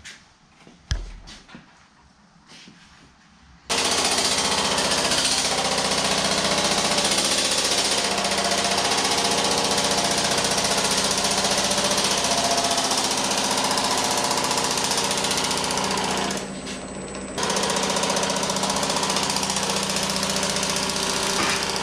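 Pullmax reciprocating sheet-metal machine starting up about four seconds in and running with a rapid, steady hammering as its custom dies work a steel panel; it eases off for about a second near the end. A few small knocks come before it starts.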